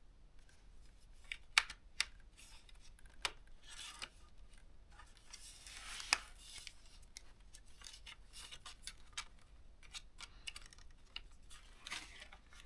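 Plastic pry pick scraping and clicking along the seams of a ThinkPad T430's plastic case as it is worked open, with scattered sharp clicks, the loudest about one and a half and six seconds in.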